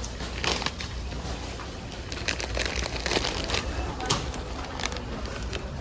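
Supermarket ambience: a steady low hum with background voices and irregular clicks and crinkling of goods and bags being handled.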